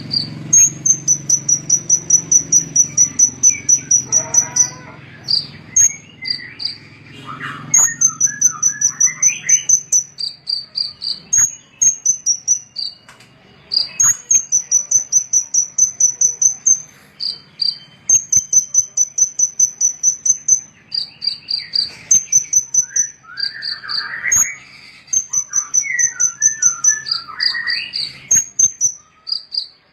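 Recorded small songbirds calling: fast, even trains of high-pitched chirps, about ten a second and a second or two long, repeated again and again, with bursts of lower, more varied warbling song now and then.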